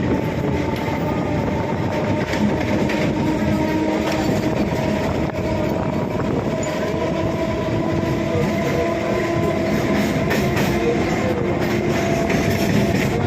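EMU electric local train running along the track: a steady loud rumble and rattle with a few faint steady whining tones over it.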